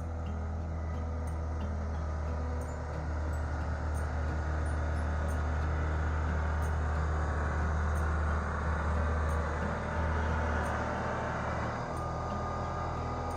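Tractor engine running steadily, growing somewhat louder through the middle and easing off near the end.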